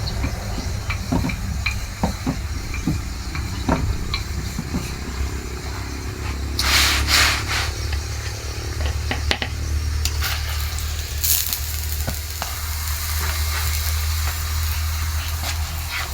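Chapati frying on a hot pan: oil sizzling, with light clicks and scrapes, and a louder burst of sizzling about seven seconds in. A steady low rumble runs underneath.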